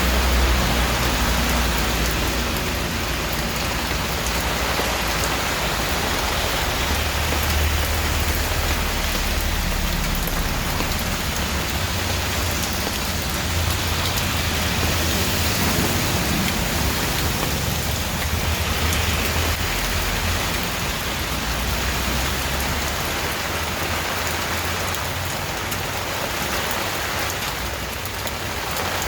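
Steady rain falling and pattering on surfaces, with a low rumble underneath that swells and eases.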